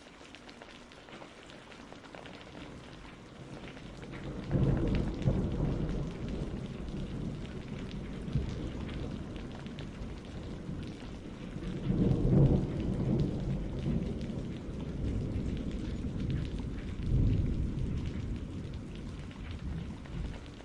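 Steady rain with rolling thunder: a low rumble swells about four seconds in, another near the middle, and a weaker one near the end.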